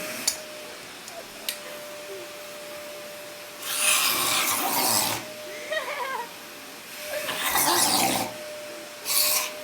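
A cat hissing in three loud bursts, with short growling sounds between them, as it squares off against a broom. Two sharp clicks come early on.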